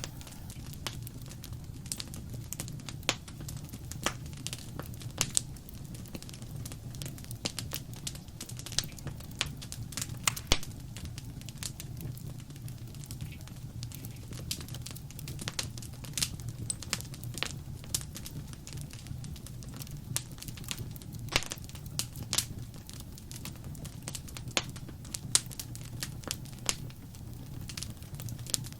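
Wood fire crackling: frequent irregular sharp pops and snaps over a steady low rumble of the flames.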